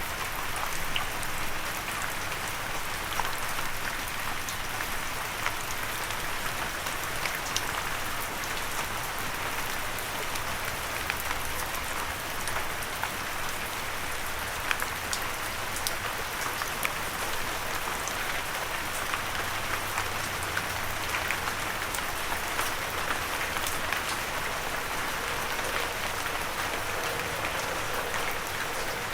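Steady gentle rain, an even hiss of rainfall with many small drop ticks scattered through it.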